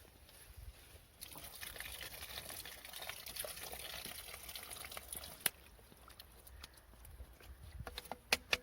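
Liquid trickling for about four seconds, followed by a few sharp clicks or knocks near the end.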